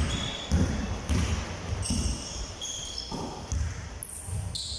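Balls bouncing on a hard indoor court: repeated thuds roughly every half second, mixed with short high-pitched squeaks like shoe soles on the floor.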